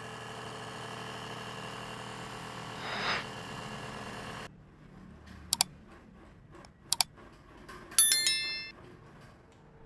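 A machine's motor humming steadily, cut off abruptly about halfway through; then two quick double clicks and a bright bell-like ding, like the click-and-bell sound effects of a subscribe animation.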